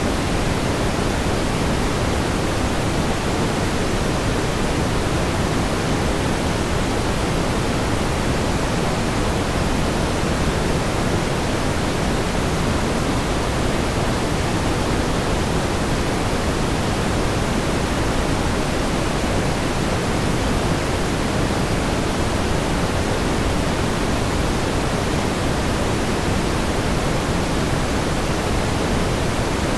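Steady pink noise: an even, unchanging hiss weighted toward the low end, with no events.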